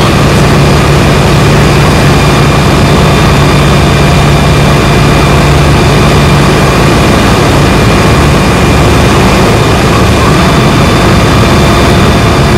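Comco Ikarus C42 ultralight's engine and propeller droning steadily in flight, with a low hum that eases slightly about seven seconds in.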